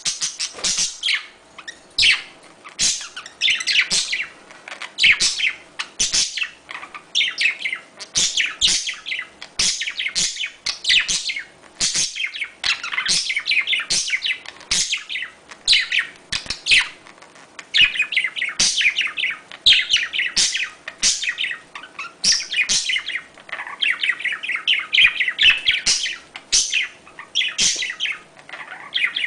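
Budgerigars chirping and warbling in quick, busy runs of short high chirps, the chatter of budgies calling in courtship.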